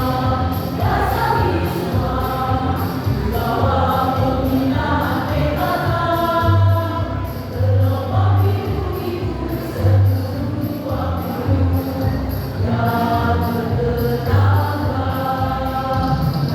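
A choir of women singing in unison with instrumental backing that keeps a steady beat.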